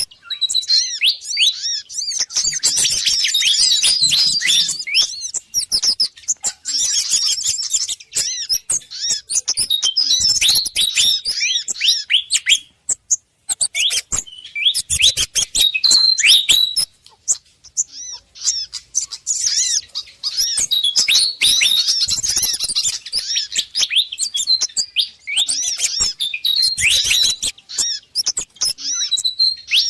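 Bird-lure recording of an agitated Malaysian pied fantail mixed with calls of other small songbirds: bursts of rapid, high-pitched chirping with short breaks between them. It is a fantail alarm chorus played to draw wild birds in.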